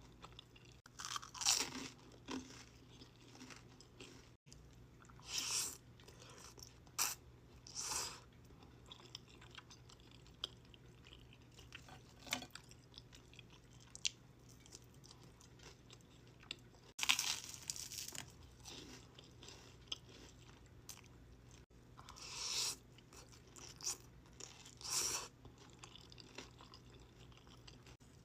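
Close-miked mukbang eating sounds: chewing with bursts of crunching, in irregular bites a few seconds apart over a faint steady hum.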